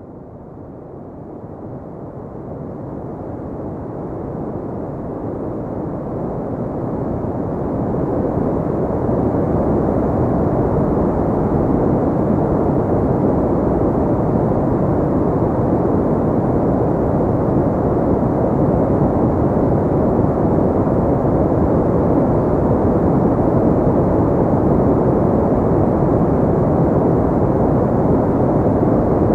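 Filtered white noise with the high end rolled off, a deep, even hiss. It fades in from quiet over the first eight or nine seconds, then holds steady.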